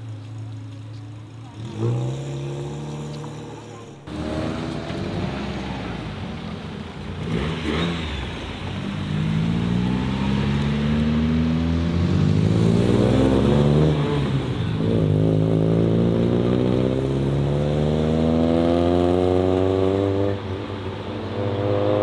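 A modified car's engine accelerating hard. It revs briefly early on, then pulls away with the pitch climbing steadily, dropping back at each gear change and climbing again, through two long pulls and into a third.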